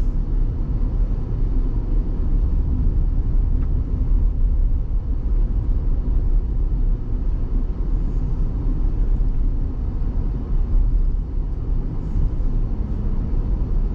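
Steady low rumble of a vehicle driving on a dirt road, engine and tyre noise heard from inside the cabin.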